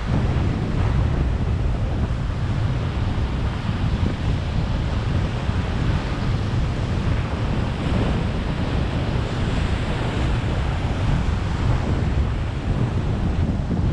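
Wind buffeting the microphone with a steady low rumble, over the continuous wash of ocean surf breaking beneath the pier.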